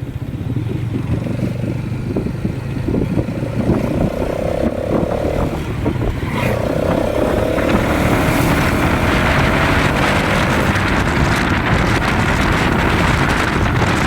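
Motorcycle engine running while riding, with a rushing wind noise on the microphone that builds up about halfway through.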